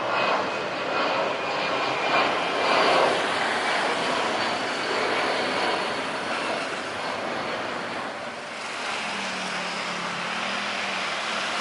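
Jet airliner engines running as a steady loud rush of noise, with a faint high whine over the first few seconds that fades away.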